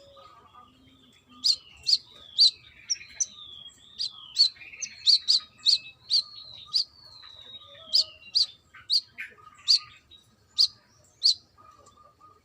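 Brown-throated sunbird (kolibri kelapa) singing: a fast run of sharp, high chips about two a second, mixed with short falling whistles. The song starts about a second and a half in and stops near the end.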